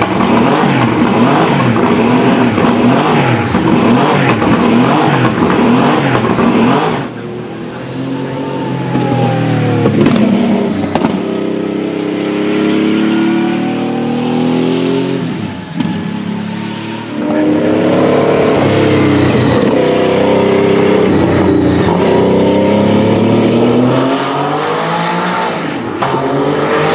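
Porsche 917/30's twin-turbocharged 5.4-litre flat-12 racing engine running hard, its pitch rising and falling as it accelerates, shifts and passes. The sound changes abruptly about seven seconds in, as from one recording to another.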